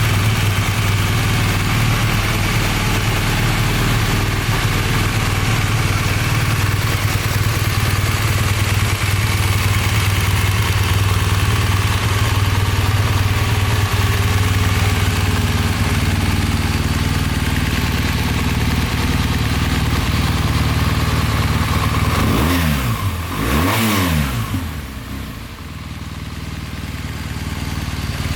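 2015 BMW R1200GS flat-twin boxer engine idling steadily, then revved up and down in several quick blips a little over twenty seconds in.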